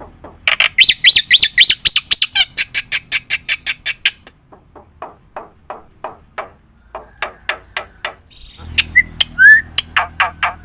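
Black-winged myna (jalak putih) calling: a rapid run of harsh, chattering notes, densest and loudest in the first few seconds, then sparser strokes with a couple of short whistles near the end.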